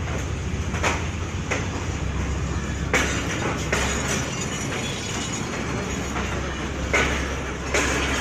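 Passenger coaches of the Allama Iqbal Express rolling past along a platform: a steady low rumble with irregular sharp wheel clacks.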